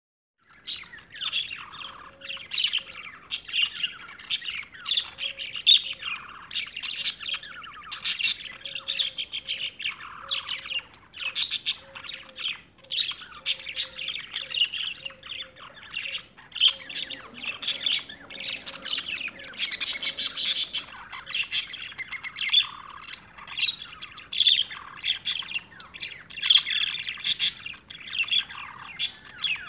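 Birds chirping and tweeting, many short calls overlapping in a busy chorus.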